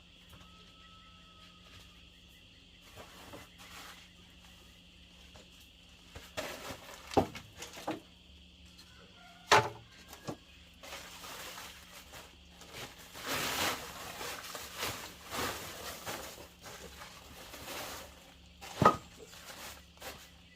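Three sharp knocks and a stretch of scraping or rustling in the middle, over a faint steady high hum.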